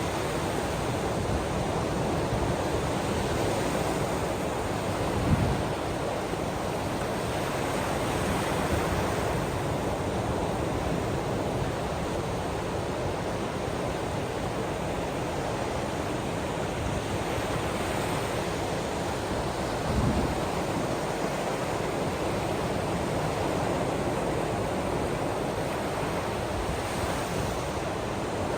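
Steady wash of ocean surf, with two brief low thuds about fifteen seconds apart.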